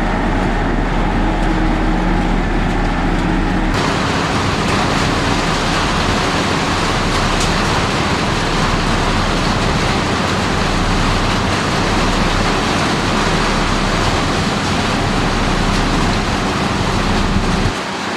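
Heavy diesel construction machinery running steadily. The sound changes abruptly about four seconds in and again near the end, from a lower engine hum to a denser, rougher roar.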